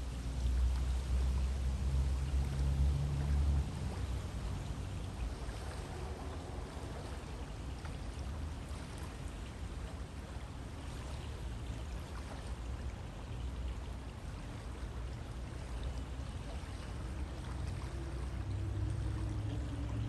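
River water flowing steadily, a continuous rushing sound, with a low rumble underneath for the first few seconds and again near the end.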